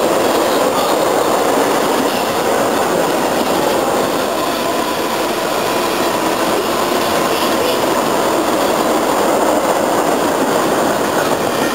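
A train passing close by: a steady, loud rumble of wheels on the rails that holds level throughout.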